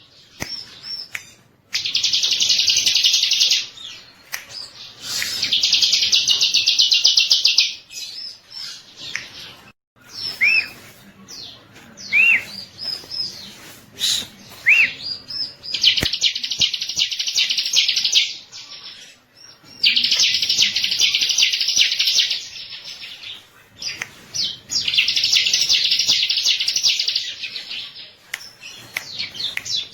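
Bar-winged prinia (ciblek) singing: five long, fast, buzzing trills of two to three seconds each, with a few short rising chirps between them around the middle.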